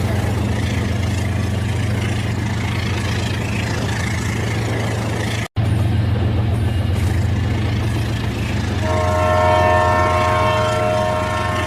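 Battery toy train running with a steady low motor hum; near the end its electronic sound chip plays a held, horn-like chord of several tones for about two seconds. The sound cuts out for an instant about halfway through.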